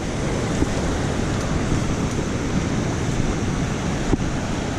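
Creek water rushing steadily, a constant loud wash of noise, with a few faint knocks.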